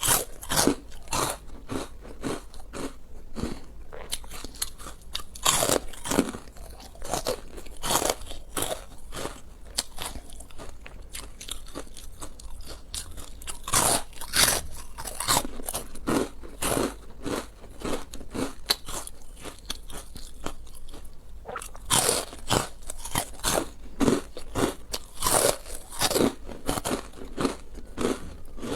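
Close-miked eating: repeated crunchy bites and chewing, in irregular strokes with a few louder crunches.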